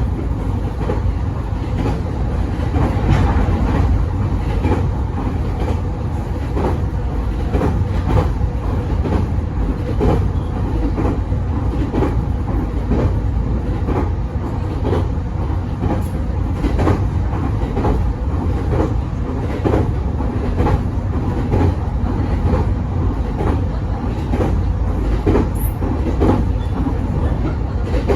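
Mito Line electric train running steadily over the rails: a constant low rumble with wheels clicking over rail joints in a regular clickety-clack, about two clicks a second.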